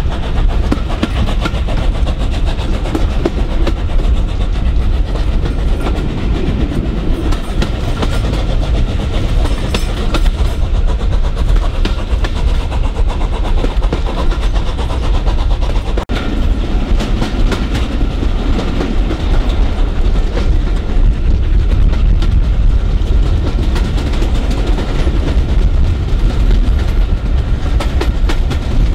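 Steam-hauled passenger train on the move, heard from a carriage window: steady running noise with wheels clicking over the rail joints.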